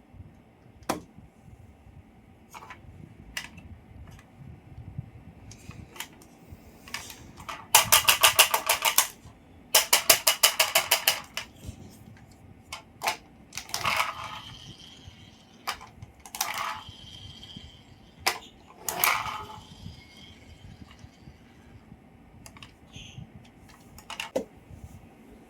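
Scattered mechanical clicks and knocks, with two runs of rapid clicking, about ten clicks a second, each lasting about a second and a half.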